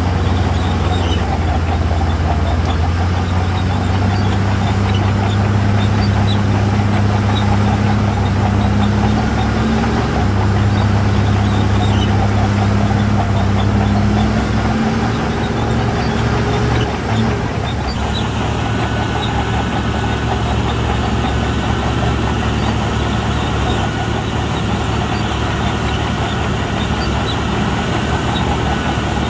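Heavy diesel earthmoving machinery running with a steady, loud, low engine hum. About halfway through, the engine note drops away and the sound changes.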